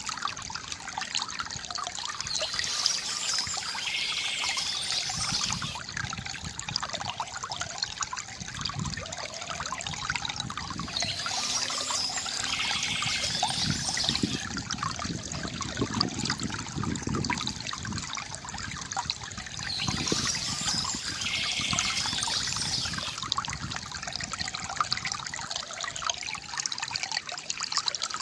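Water trickling and splashing steadily from a bamboo fountain, with bursts of bird chirping that come back about every eight to nine seconds.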